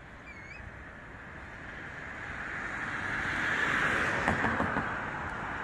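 Approaching train hauled by Beyer-Garratt steam locomotive 6029 and diesel locomotive GL109: a rushing noise that grows louder for about four seconds, then eases slightly. A bird chirps briefly right at the start.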